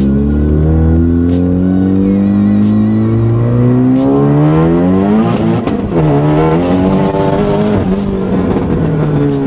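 Car engine revving hard, its pitch climbing slowly for about five seconds, dropping sharply about six seconds in, then climbing and wavering again.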